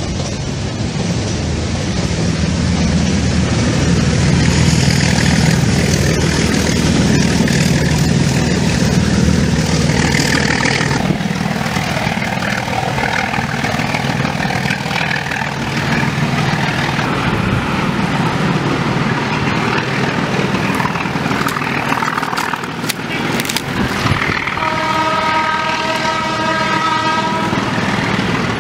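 Nilgiri Mountain Railway train running along the line with a steady low rumble and clatter of the coaches. Near the end the locomotive gives one long blast of about three and a half seconds.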